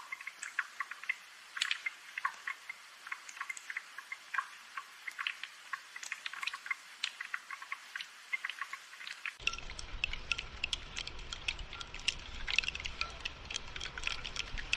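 Rain falling, heard as a dense, irregular patter of individual drops over a soft hiss. About nine seconds in, a low rumble joins the rain.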